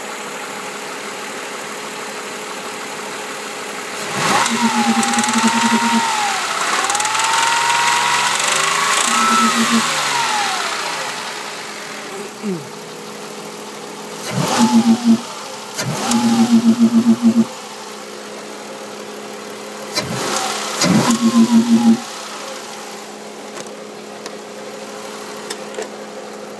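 Ford Mondeo Mk3 2.5 V6 engine idling and blipped several times, with a fast rattling knock during each rev-up before it settles back to idle. The uploader puts the clatter down to failed connecting rod bearings.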